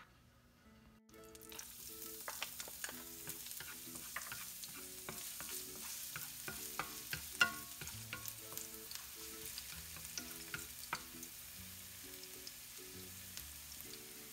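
Food frying in hot oil in a pan: a steady sizzle with scattered crackles and pops that starts about a second in.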